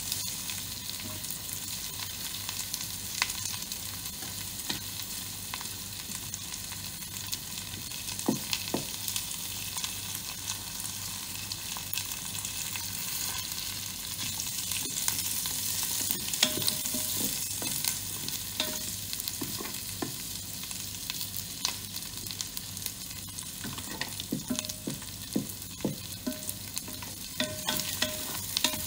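Ginger, garlic and whole spices sizzling in hot oil in a pressure cooker's inner pot, stirred with a wooden spatula. The spatula scrapes and taps against the pot, more often in the second half.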